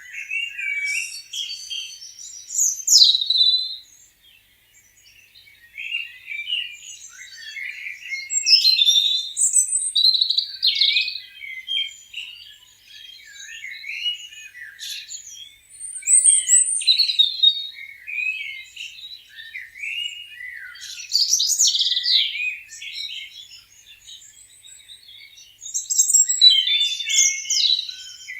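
Birds chirping and singing in short, overlapping high phrases that come in loud bunches every few seconds, with a near-quiet lull a few seconds in.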